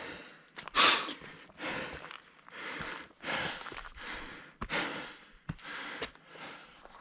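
Heavy, fast breathing of a hiker labouring up a steep mountain trail: loud breaths in and out, a little more than one a second, the loudest about a second in, with a few light clicks between them.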